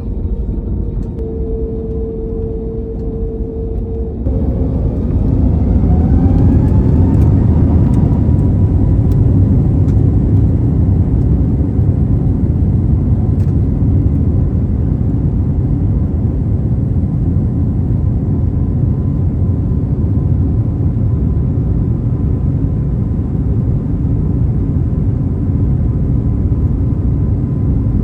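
Airbus A321 jet engines heard from inside the cabin, spooling up to takeoff thrust about four seconds in with a rising whine, then a steady loud rumble as the aircraft accelerates down the runway and climbs.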